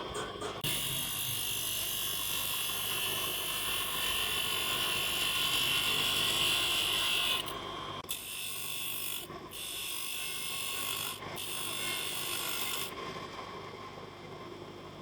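Sanding on the plastic of a car tail light: a steady rasping that runs unbroken for about seven seconds, then goes on with several short breaks and thins out near the end.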